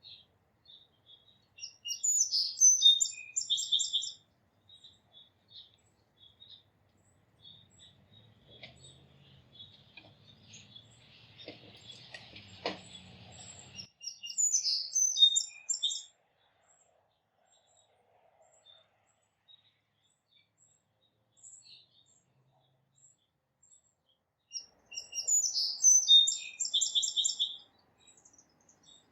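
A songbird singing three times, each song a quick run of high notes about two seconds long, with about eleven seconds between songs and faint chips in the gaps. Midway there is a faint low rumble and a single knock.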